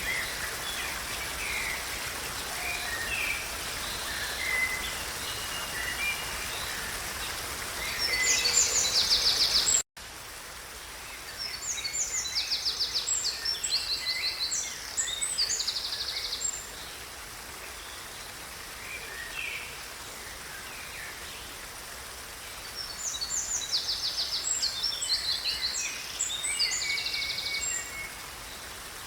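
Wild birds singing over a steady outdoor hiss. Short chirps are scattered throughout, and several loud, rapid trilled songs last a few seconds each. About ten seconds in there is an abrupt cut, after which the background hiss is quieter.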